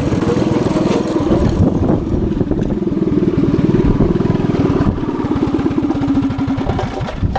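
Mini bike's Predator 212 single-cylinder four-stroke engine running under throttle while riding, with a steady, fast pulsing exhaust note that eases off near the end.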